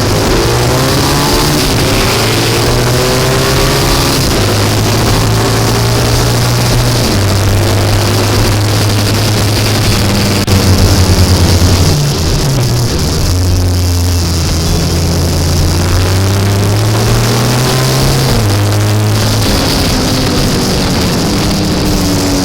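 Racing sidecar outfit's engine heard from on board at racing speed, its pitch rising under acceleration and dropping through gear changes over and over, with a steady rush of wind. It is loudest for a stretch about halfway through.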